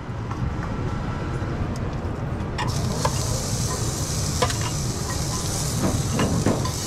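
Chicken teriyaki pieces sizzling in a hot frying pan as they are laid in with metal tongs; the sizzle starts about two and a half seconds in. A few short clicks of tongs against the pan sound over a steady low rumble.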